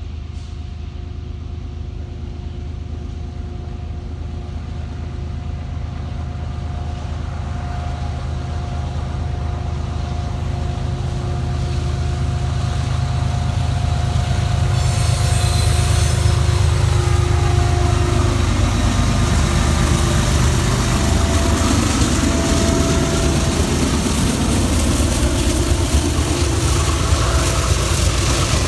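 Diesel locomotives heading a BNSF grain train approach, their engines rumbling and growing louder for about fifteen seconds. Then they pass with a drop in pitch, and the cars roll by with steady wheel noise on the rails.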